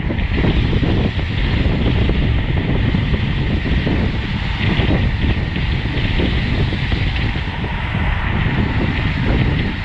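Wind buffeting the microphone of a camera riding on a road bicycle at race speed: a loud, steady rushing noise, with a faint steady high tone underneath.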